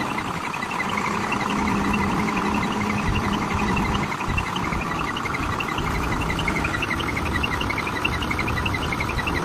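A vehicle engine running steadily, with a dense, constant high chirping of insects over it.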